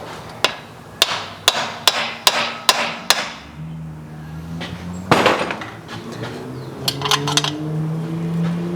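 Hammer blows on metal: about seven sharp, ringing strikes in quick succession, roughly two and a half a second, then a heavier knock and a few lighter taps. A steady low hum comes in after the first run of strikes.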